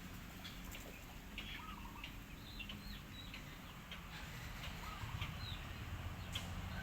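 Bird calls: a scattering of short, hooked chirps, several a second at times, over a low steady background hum.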